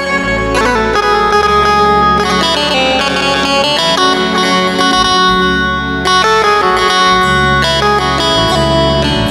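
Roland XPS-10 keyboard playing a banjo tone: a quick plucked melody over held low bass notes from the accompaniment.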